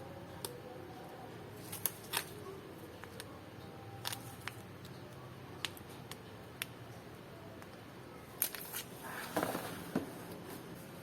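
Scattered light clicks and knocks of small objects being handled, with a brief rustling scrape about nine seconds in.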